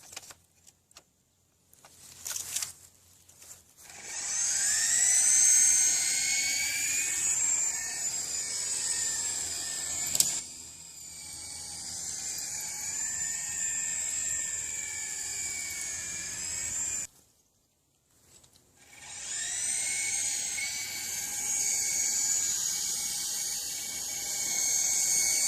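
The small RC helicopter's electric motor and rotors spin up to a high, rising whine and run steadily. About thirteen seconds in they cut out abruptly, and a couple of seconds later they spin up again. A sharp click is heard near the middle.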